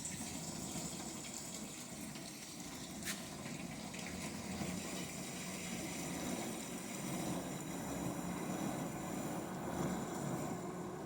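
Winterhalter commercial dishwasher running, with a steady rush of water and pump noise that grows slightly louder; a single sharp click about three seconds in.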